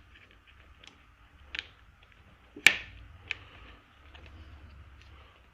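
Small clicks and taps of engine parts being handled while a cover is fitted back onto a small two-stroke outboard engine, with one sharp, louder click a little before the middle.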